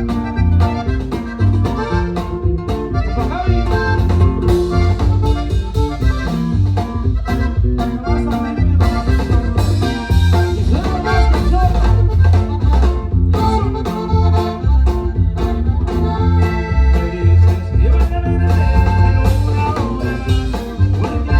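Norteño band playing an instrumental passage: accordion lead over electric bass and drum kit keeping a steady beat.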